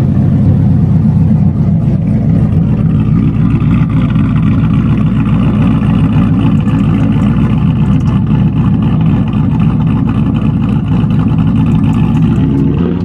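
Car engine running steadily close by at a constant speed, a loud, even sound with rapid pulsing and no revving.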